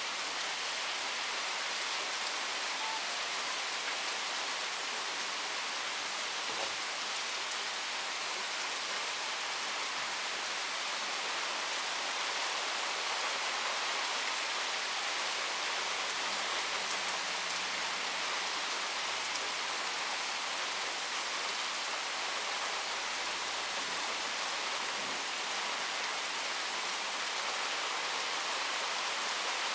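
Steady heavy rain falling, an even hiss of drops on surfaces.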